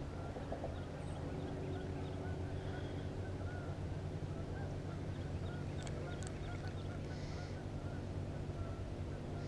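Birds calling over and over in short notes, over a steady low hum.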